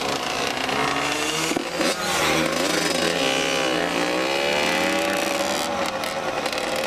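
Small off-road engine running under varying throttle, its pitch rising and falling several times, with a dip about four seconds in and then a climb.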